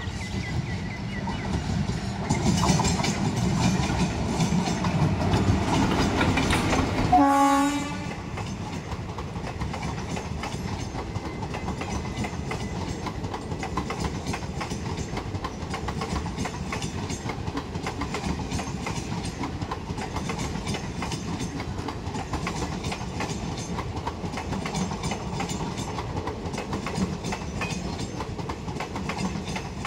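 Express passenger train running into a station: wheels rumbling and clattering over the rail joints, with a short horn blast about seven seconds in, the loudest moment. After the horn the coaches roll past in a steady rumble and clatter.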